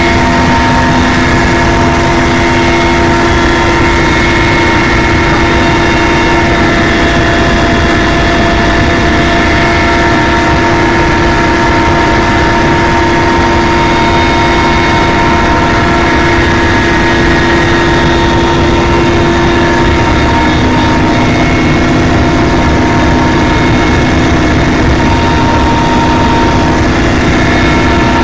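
Helicopter in flight: a steady, loud engine and rotor noise with a constant whine of several held tones, unchanging throughout.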